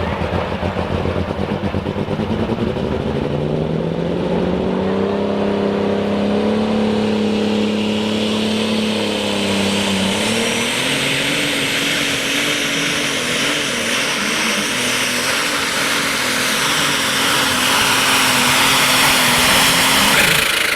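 International Harvester 1066-based super stock pulling tractor's turbocharged diesel engine at full power, dragging the sled. Its pitch climbs over the first ten seconds and steps higher about halfway, while a high turbo hiss builds, and the sound drops away sharply near the end as the pull finishes.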